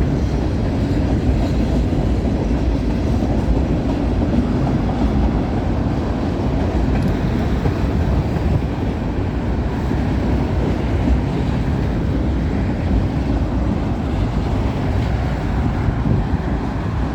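Freight cars of a passing CN freight train rolling by on the rails: a steady, loud rumble of wheels on track.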